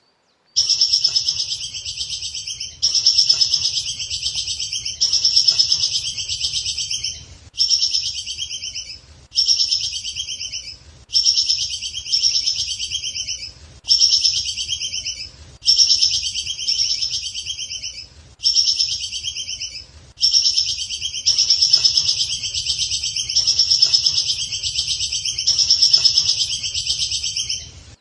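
A songbird singing a high, rapidly trilled phrase over and over, each phrase about one and a half seconds long with short gaps, as in a looped tutor song for training caged birds. A faint low hum runs underneath.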